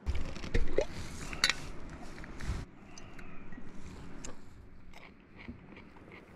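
Biting into and chewing a crunchy pickle close to the microphone: loud wet crunches in the first couple of seconds, then softer chewing.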